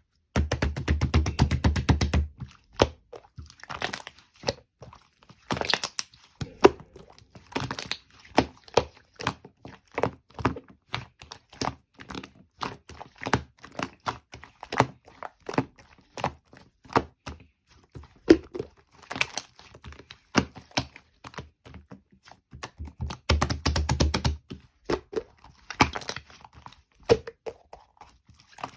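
Opaque blue fluffy slime being squished, folded and poked by hand: a running series of wet clicks and crackles as air pockets pop, with two stretches of rapid dense popping, at the start and about three-quarters of the way through.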